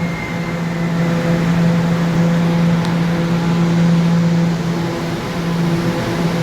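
Subway train's steady electric hum: one strong low tone with fainter higher tones over a rushing noise.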